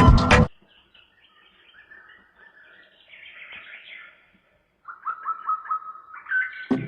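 Background music cuts off about half a second in, leaving faint bird chirping, then a quick run of repeated chirps that steps up in pitch near the end as the music comes back in.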